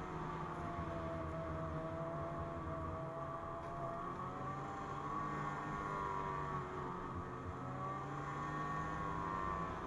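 2017 Ski-Doo MXZ snowmobile's 600 carbureted two-stroke twin running at a steady cruise, its pitch wavering gently up and down.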